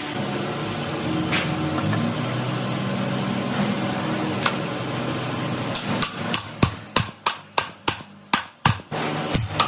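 A hammer striking metal during gearbox work: one sharp knock a little before halfway, then a steady run of blows, about three a second, through the second half, each with a high metallic ring.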